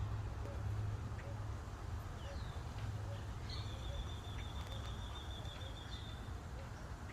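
Small birds singing: a few short chirps, then one long high trill lasting about two and a half seconds, over a steady low rumble of wind on the microphone.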